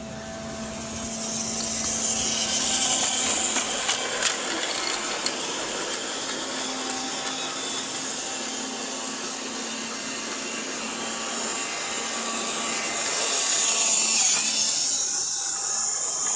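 Model train running on its track: a steady whir of the small electric motor and the wheels rolling on the rails. It grows louder about three seconds in and again near the end, as if passing close by, with a few light clicks.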